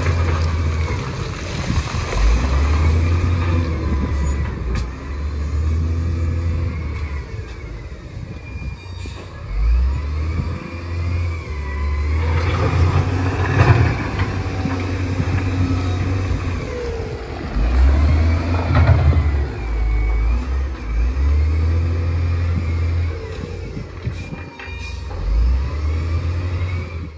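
Bulldozer's diesel engine working in mud, its drone rising and falling in surges of a few seconds as it takes and sheds load, with faint high whines over it.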